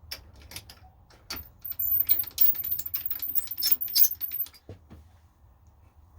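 Small metal objects clinking and rattling together. A few separate clicks come first, then about three seconds of fast, dense clatter, with a couple of softer knocks near the end.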